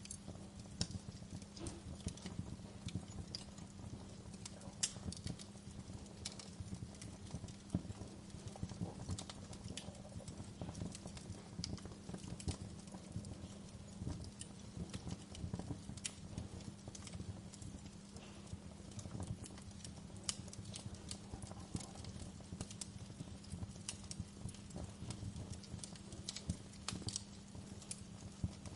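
Wood fire in a fireplace crackling, with irregular sharp snaps and pops over a steady low hum.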